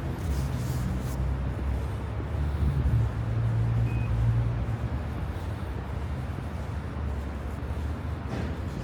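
Low, steady rumble of road traffic on a city boulevard, swelling a little about three to four seconds in.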